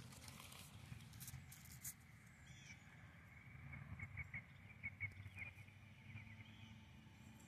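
Near silence with a few faint clicks early on, then a faint bird chirping a quick run of short high notes in the middle.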